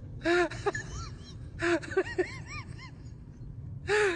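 A bird calling three times, each harsh call followed by a run of short, arching chirps.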